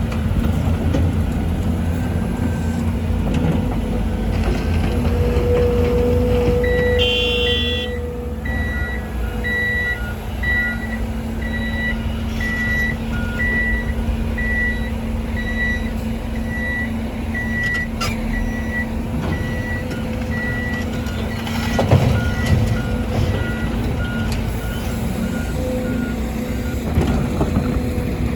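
Heavy diesel engines of an excavator and dump trucks running steadily, with a warning beeper beeping about once a second for much of the time. A short thump comes near the end.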